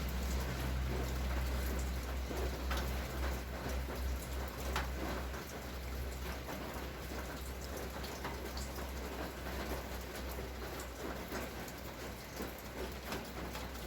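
Heavy rain shower falling steadily, with many individual drops ticking on a nearby surface, over a steady low rumble.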